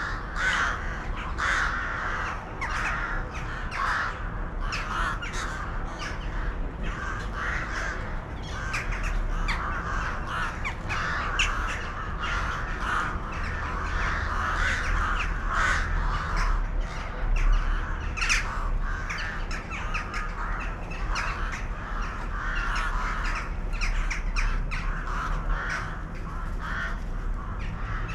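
A flock of birds calling, many short calls overlapping one another continuously, over a steady low rumble.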